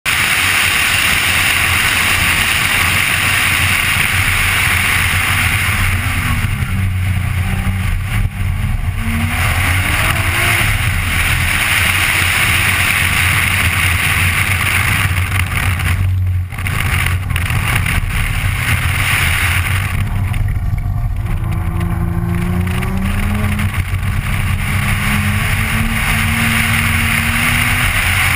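Nissan GT-R's twin-turbo V6 on a flying racing lap, heard from inside the cabin over heavy wind and road noise. There are two brief dips in loudness, about eight and sixteen seconds in, and near the end the engine note climbs steadily as the car accelerates.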